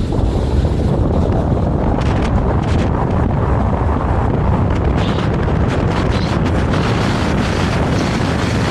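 Vario LF2R.E low-floor tram running along the track: a steady low rumble of wheels on rail, with irregular rattling clicks from about two seconds in.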